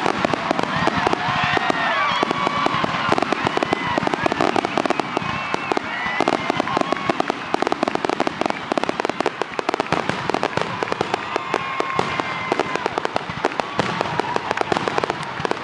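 Fireworks display: a dense, continuous crackle of many rapid small bangs, with high tones gliding up and down above the crackling.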